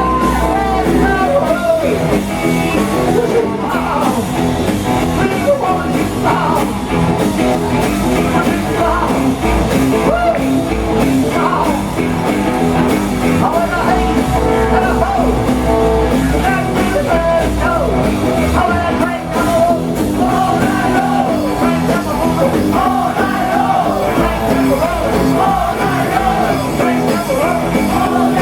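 Live rock and roll band playing loud and steadily, with electric guitar over a driving bass and drum beat.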